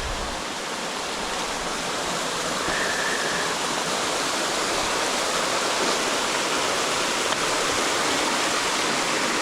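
Steady rush of flowing water from a stream or small waterfall, getting slightly louder. A faint, brief high tone comes about three seconds in.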